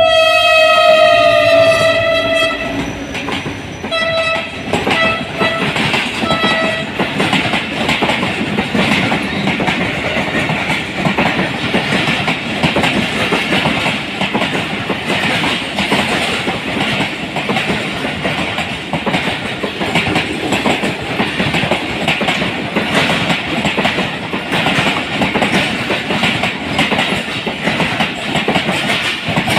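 Diesel locomotive horn sounding one long blast of about two and a half seconds, then four short toots. After that, passenger coaches roll past with a steady clickety-clack of wheels over the rail joints.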